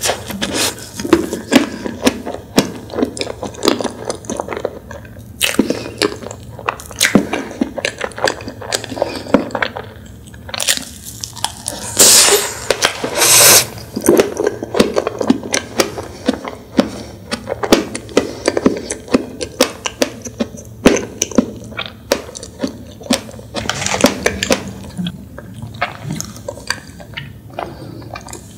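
Close-miked mouth sounds of someone chewing a soft dessert: wet clicks and smacks, with a louder rustling burst about twelve seconds in.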